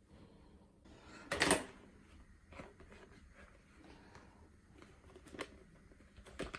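Dishes and plastic containers being handled in an open dishwasher: scattered light clicks and knocks, with one louder clatter about a second and a half in.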